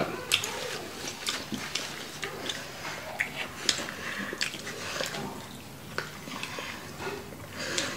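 Close-up chewing and lip smacking from people eating chicken wings and garlic knots: an irregular string of small wet clicks and smacks.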